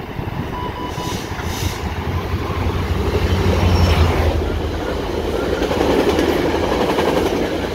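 Commuter train passing directly below: a low rumble builds to its loudest about four seconds in as the front of the train goes under, then the coaches roll by with steady wheel-on-rail noise and a rhythmic clicking of wheels over the track.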